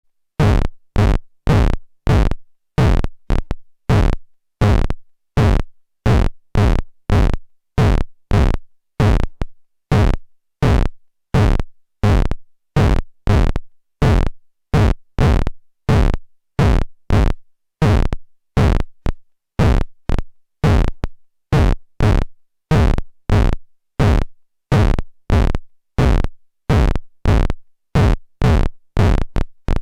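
Amplified bioelectrical field of the dry rot fungus Serpula lacrymans, transcribed directly into sound: a steady run of short, sharp electrical pulses at about two a second, slightly uneven, each cutting in suddenly and dying away fast.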